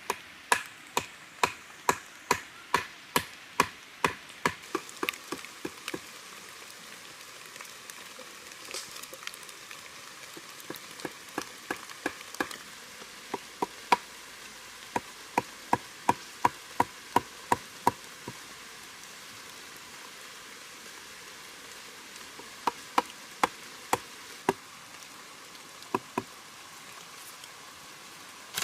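Rhythmic chopping, a blade striking wood at about two strokes a second in several runs with pauses between, over a steady hiss of rain.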